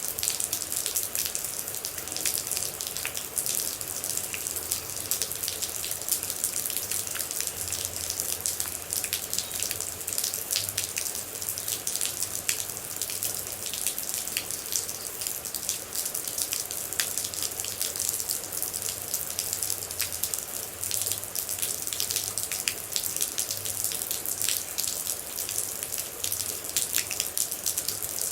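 Steady rain falling, an even hiss with many individual drops landing close by as sharp ticks.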